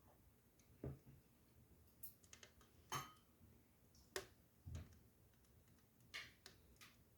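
Faint, irregular pops and crackles from a wood fire burning in a fireplace, about eight scattered snaps, a few with a dull low knock.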